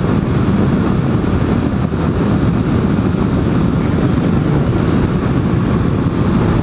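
Motorcycle being ridden at a steady speed: an even, unbroken rumble of engine, road and wind noise.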